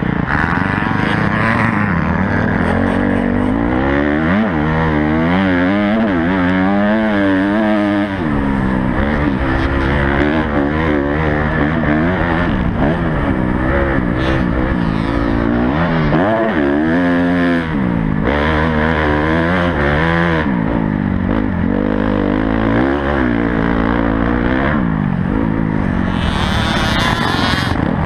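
A Honda CRF250 motocross bike's engine, heard from on board, revving hard with its pitch rising and falling in quick sweeps as the throttle opens and closes and the gears change. There is a brief hiss near the end.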